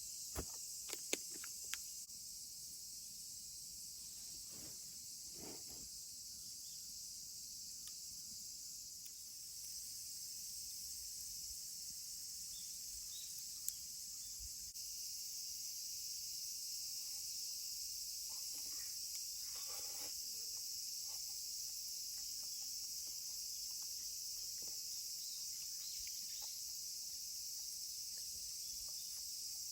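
Steady, high-pitched chorus of summer insects. A few sharp clicks come in the first two seconds, and one more about fourteen seconds in.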